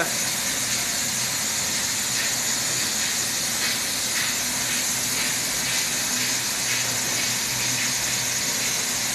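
Boiler-room ambience: a steady hiss with a faint low hum underneath, unchanging throughout.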